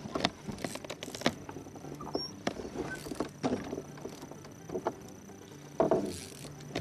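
Scattered knocks and clatter of gear being handled in a small fishing boat, with a louder rushing burst a little before six seconds in.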